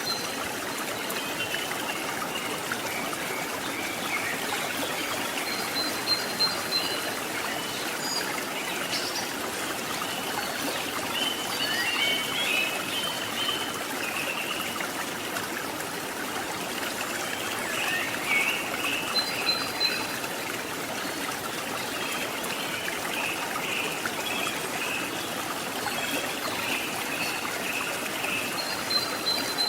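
Stream water flowing and trickling steadily, with short repeated high chirping calls breaking in now and then.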